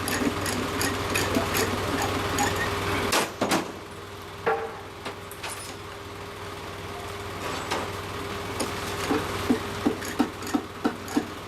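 Hammer knocks on the wooden parts of a danjiri festival float being assembled: scattered strikes, then a quick run of taps near the end. A steady motor hum underneath cuts off about three seconds in.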